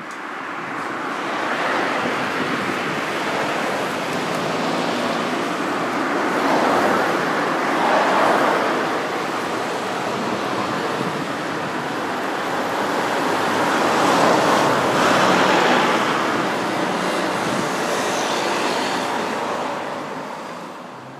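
Iyotetsu 3000 series electric train running slowly into a station: a steady rushing rumble that swells twice and fades near the end.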